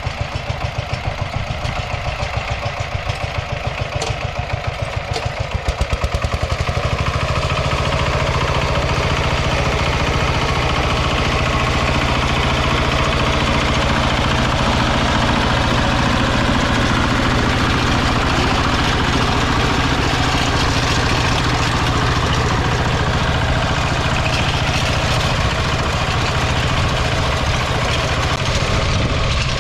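Single-cylinder diesel engine of a Kentavr walk-behind tractor running; about six seconds in it speeds up and runs louder and steadier, as when throttled up to work.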